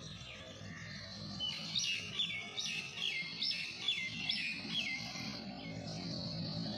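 A songbird calling a quick series of about nine repeated high chirps, each note sliding down in pitch, roughly two or three a second, stopping about five seconds in.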